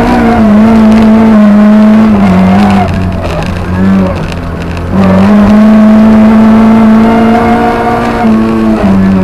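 Lada 2107 rally car's Béreš-built 1.6-litre four-cylinder engine heard from inside the cabin, held at high revs under load. It lifts off around three seconds in with a short rev blip, then goes back on the throttle at steady high revs from about five seconds, dipping again briefly near the end.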